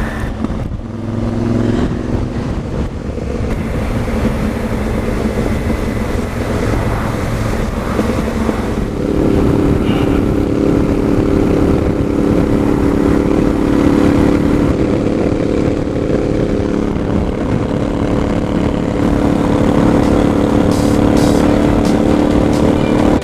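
Motorcycle engine running steadily on the move, with wind noise over the microphone; the engine note grows louder about nine seconds in.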